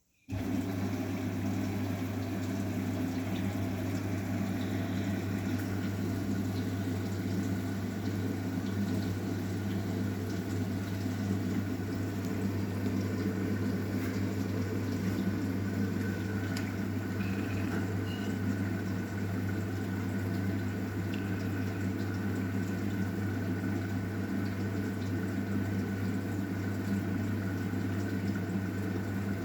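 Arçelik 9120M washing machine drawing in water to fill the drum: a steady rush of water with a hum, switching on suddenly at the start.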